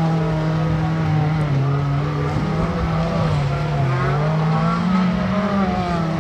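Suzuki Jimny off-road rally car's engine revving under hard driving on dirt, its note falling and rising several times with the throttle and gear changes.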